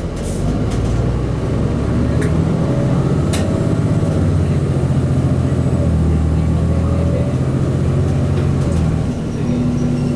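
Cummins ISC inline-six diesel engine of a Blue Bird CS transit bus running under way, its pitch shifting several times as the bus pulls and eases off, with a brief dip about nine seconds in. Two sharp clicks or rattles sound about two and three seconds in.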